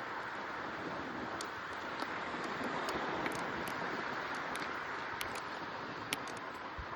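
Steady rushing wind noise from riding a bicycle, with scattered sharp little clicks throughout.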